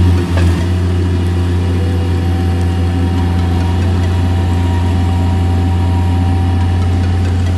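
An engine running steadily at an even idle, with a short knock about half a second in.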